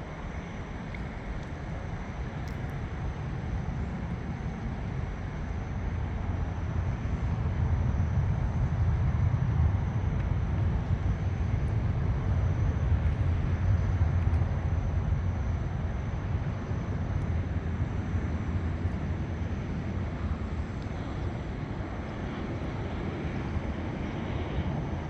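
Airplane passing overhead: a low rumble that builds over several seconds, peaks around the middle, then slowly fades.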